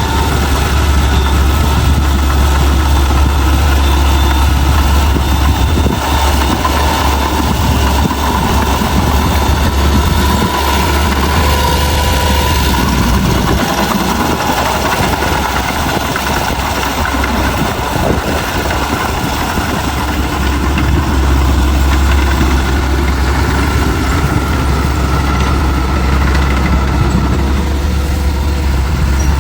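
Heavy diesel engine of earthmoving machinery running steadily, with a strong, constant low engine note that softens a little around the middle.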